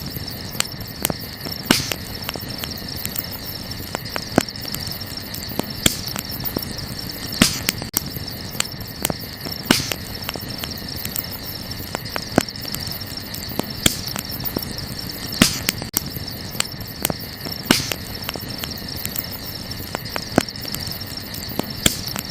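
Burning wood crackling, with irregular sharp pops every second or two, over a steady chorus of crickets chirping.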